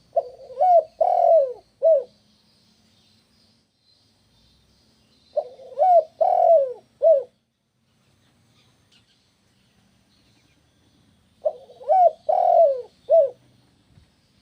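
Spotted dove cooing: three phrases, each of four coos with the third the longest, repeating about every five to six seconds. Faint high twittering runs in the background.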